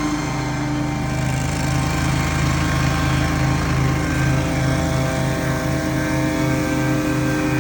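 Small gasoline engine of outdoor power equipment running steadily at working speed, with a low pulsing beat in its note from about two seconds in.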